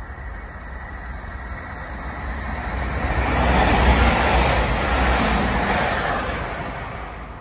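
Class 197 diesel multiple unit passing along the near track, its rumble and wheel noise swelling to a peak about halfway through and fading off.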